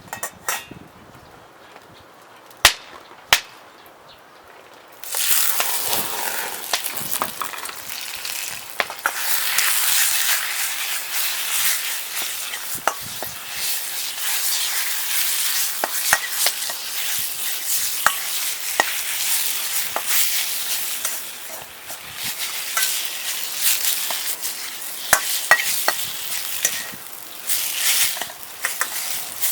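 A few light clicks, then about five seconds in food goes into hot oil in a wok and starts sizzling loudly. Stir-frying follows: continuous sizzling with frequent clacks of the spatula against the wok.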